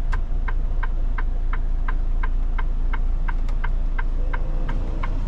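Semi truck's turn-signal indicator ticking evenly inside the cab, about three ticks a second, over the low steady drone of the idling diesel engine.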